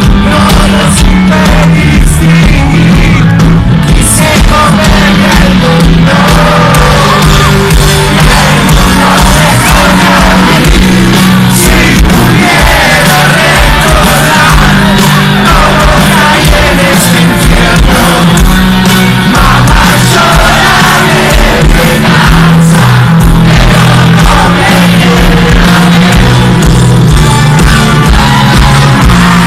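Live rock band playing loudly with a singer, heard at concert level, with shouts from the crowd.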